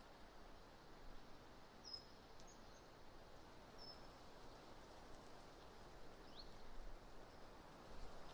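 Faint steady wind noise on an outdoor webcam microphone, with a few faint, short, high chirps from small birds about two seconds in, around four seconds, and again past six seconds.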